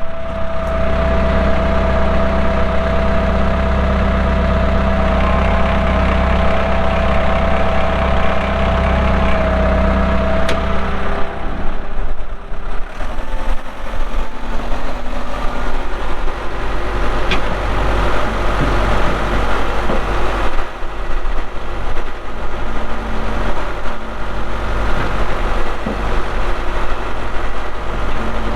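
New Holland 6610S tractor's diesel engine running, with a steady whine over the low rumble for the first dozen seconds; then the sound changes and becomes more uneven for the rest.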